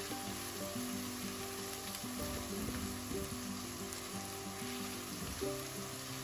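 Chopped onion and whole spices sizzling steadily as they fry in ghee and oil in a frying pan, stirred now and then with a spatula. Soft background music with steady notes plays underneath.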